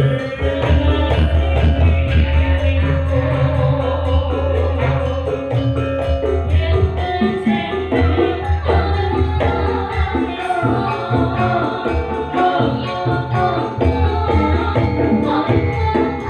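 Live Javanese Sragenan-style band music: melodic instruments over steady drumming and a heavy bass line.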